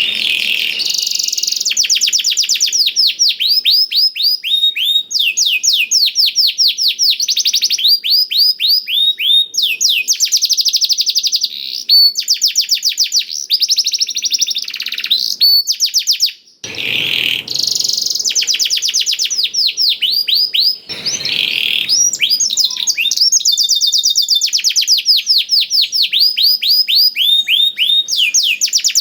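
Domestic canary singing a blackthroat-style song ('isian blackthroat'): long, fast trills of rapidly repeated down-sweeping high notes, run together phrase after phrase, with only a couple of brief breaks.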